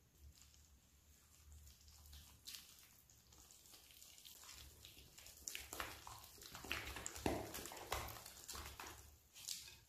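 Flour being mixed into water and yeast in a mixing bowl: soft, irregular scraping and knocking that grows louder from about halfway.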